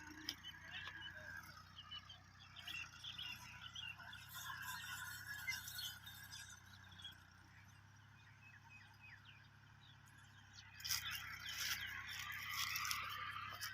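Faint outdoor ambience of birds chirping over a low steady hum, with louder crackling or rustling about eleven seconds in.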